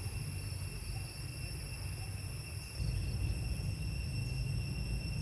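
Insects chirring in steady high tones over a low rumble that gets louder about three seconds in.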